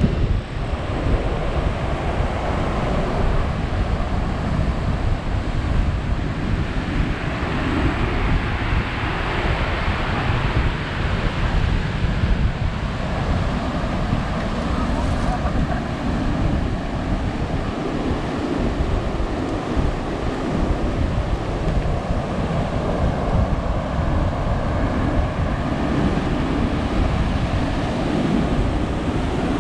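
Heavy post-typhoon surf breaking and washing on a gravel beach, a continuous rushing with one wave swelling louder about a third of the way through. Wind buffets the microphone, adding a low rumble.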